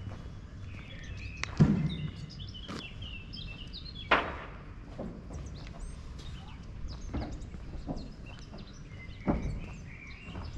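Small birds chirping over steady outdoor background noise, broken by three loud sharp knocks: about one and a half seconds in, about four seconds in, and near the end.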